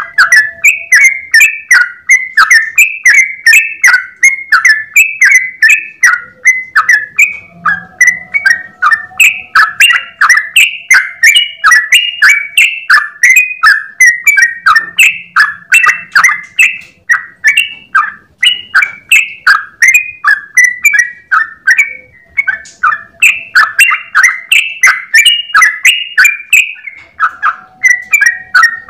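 Yellow-vented bulbul (trucukan) singing a long, unbroken run of short, quick notes, about three a second, without a pause.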